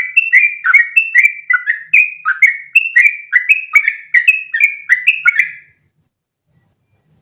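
Yellow-vented bulbul (trucukan) singing a long unbroken run of rapid, sweeping notes, about three a second, the long one-breath 'ropel' song; it stops abruptly near the end.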